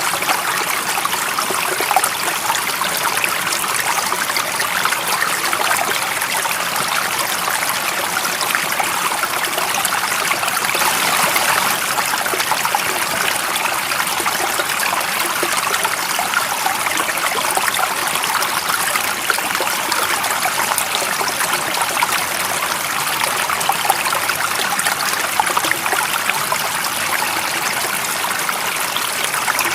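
Running water of a stream, a steady unbroken rush and trickle.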